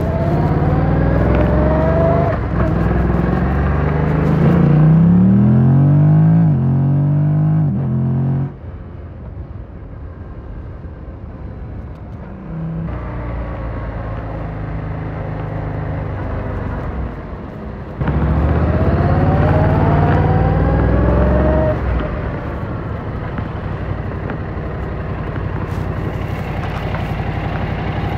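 Motorcycle engine pulling hard up through the gears for about eight seconds, its pitch climbing and breaking at each shift. It then backs off suddenly to a quieter, lower sound and runs steadily. About eighteen seconds in it accelerates again through a couple of shifts, then settles into a steady cruise.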